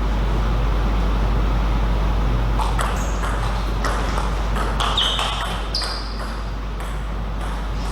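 Table tennis ball clicking as it is struck by rackets and bounces on the table in a rally, a sharp tick about every half second from about three seconds in. Two short high squeaks come in the middle, over a steady low electrical hum.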